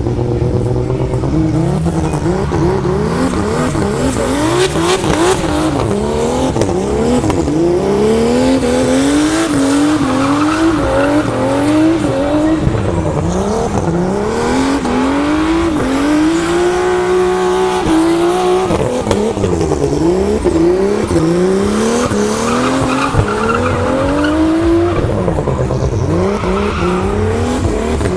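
Turbocharged BMW E36 328i's M52 inline-six revving up and down again and again while drifting, with tyre squeal over it. About two-thirds of the way through, the revs hold high and steady for a couple of seconds before dropping.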